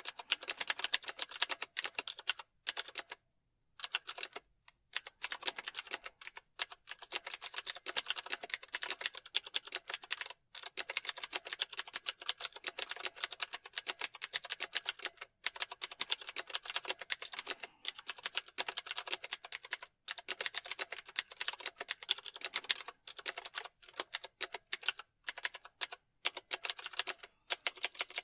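Computer keyboard typing: rapid runs of key clicks and taps, broken by short pauses every few seconds.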